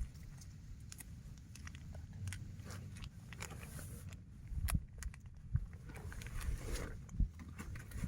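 Wind buffeting the microphone as a steady low rumble, with scattered clicks, knocks and short rustles of things being handled, busiest and loudest in the second half.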